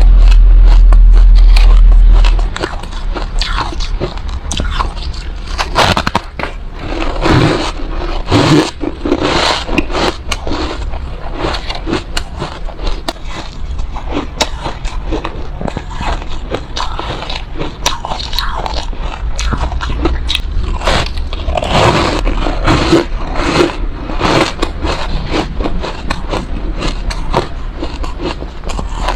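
Close-miked bites and chewing of refrozen soft ice: dense, sandy crunches with slightly squeaky bites, many per second. A loud low rumble fills the first couple of seconds before the crunching takes over.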